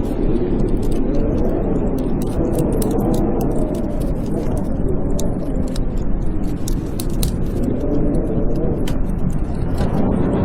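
Blizzard wind howling in a low, wavering moan, with the irregular crackles and pops of a wood fire burning in a fireplace.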